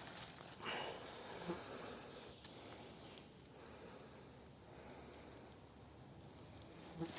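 A person breathing hard, with a few louder breaths about a second in and near the end, over a faint steady hiss.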